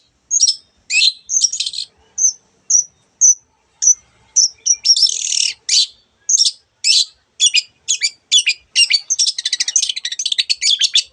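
Long-tailed shrike singing: a string of short high chirps and harsh scratchy notes, breaking into a rapid run of notes about nine seconds in.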